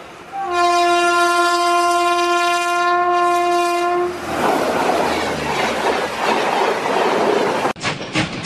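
A train horn sounds one long held blast of about three and a half seconds, then gives way to the loud rushing noise of a passing train. Near the end the sound cuts over to a regular clickety-clack of wheels on rail joints.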